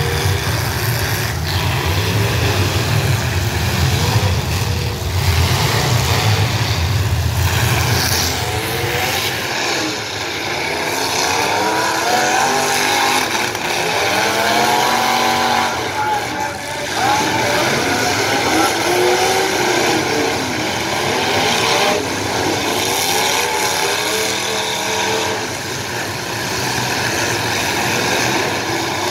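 Demolition derby cars' engines running loud and revving up and down again and again. A heavy low rumble dominates for the first several seconds.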